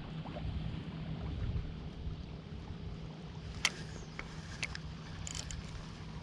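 A steady low hum over wind and low rumble, with a few sharp clicks a little past the middle.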